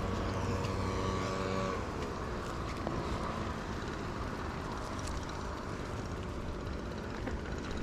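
A motor vehicle's engine running with a steady hum nearby, which drops in pitch and fades away about two seconds in, leaving the steady rush of a bicycle rolling along with wind on the microphone.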